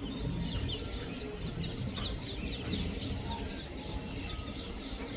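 Many birds chirping busily in quick, overlapping calls over a steady low rumble.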